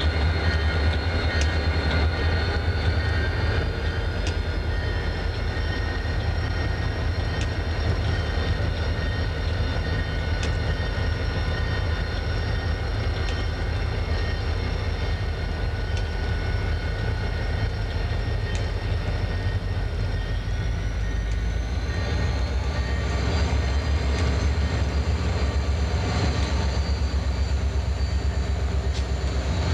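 Diesel freight locomotives running with a steady heavy rumble. A high whine above it rises in pitch twice, a few seconds in and again about two-thirds of the way through, then holds steady.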